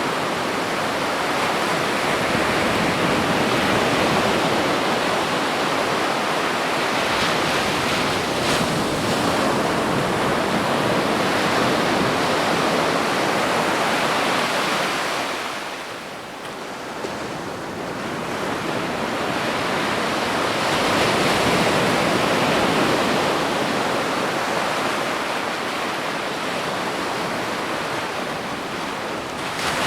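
Ocean surf washing onto a beach: a continuous rush of breaking waves that eases off about halfway through, then builds again as the next waves come in.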